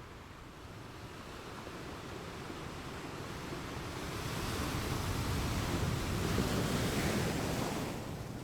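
Ocean waves washing onto the shore: a surge of surf builds from about halfway through, peaks, and falls away sharply near the end.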